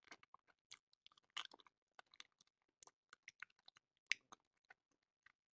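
Close-miked mouth sounds of biting and chewing a frozen ice cream bar: a run of faint, irregular crunches and wet clicks, with the loudest bite about four seconds in.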